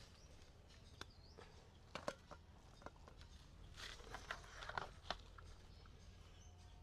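Faint, scattered light clicks and knocks, about a dozen, bunched about two seconds in and again between four and five seconds, over a quiet low hum.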